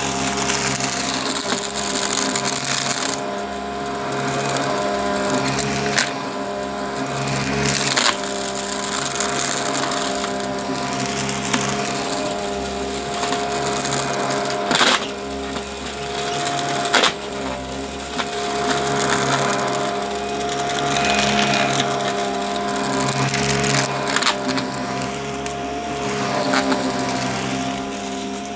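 Upright vacuum cleaner running steadily with a motor whine, its suction surging as it is pushed back and forth, with crunchy crackling of debris being picked up and a few sharp clicks.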